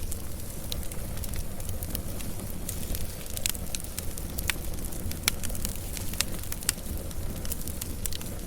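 Wood fire burning: crackling and popping, with frequent sharp snaps over a low, steady rumble of flame. Several louder pops come in the middle of the stretch.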